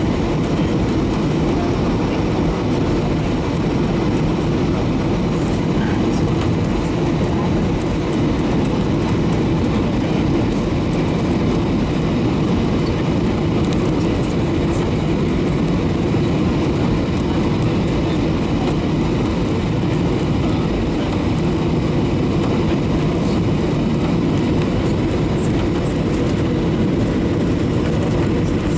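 Steady cabin noise of a Boeing 737-800 in flight: a constant low rumble from its CFM56 turbofan engines and the air rushing past, with no change in level.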